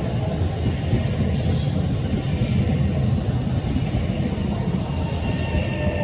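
A train running past on the rails, a steady loud rumble of wheels and running gear.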